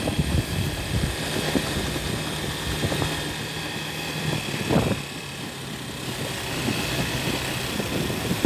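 Motorcycle engine running on the move, with wind and road noise; the engine note drops a little about halfway through.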